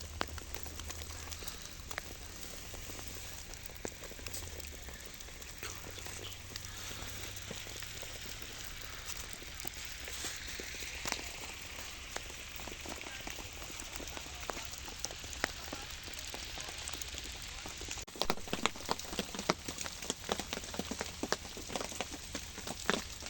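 Rain pattering steadily on a surface, with scattered sharper drop ticks; about three-quarters of the way through, the patter turns suddenly louder and more clicky.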